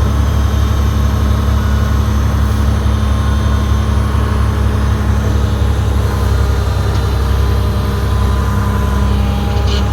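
Komatsu D31P crawler bulldozer's diesel engine running at a steady pitch, with a brief patch of rapid high clicking near the end.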